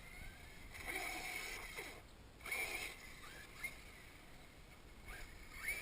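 1/8-scale RC monster truck's motor whining, its pitch sweeping up and down several times as it speeds up and slows, fairly faint.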